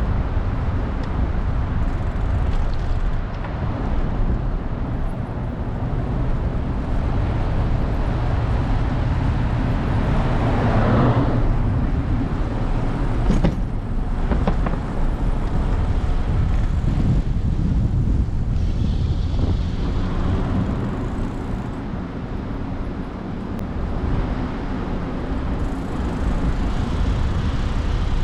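City street traffic: a steady rumble of road noise, with a louder vehicle passing about eleven seconds in.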